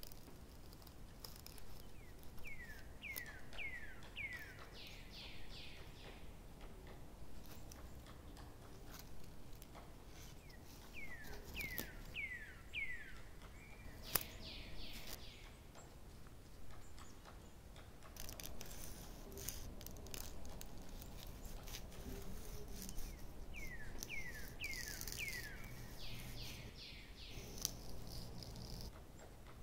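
A songbird singing the same phrase three times, about every ten seconds: a run of four or five falling notes ending in a higher trill, over a faint outdoor background hiss.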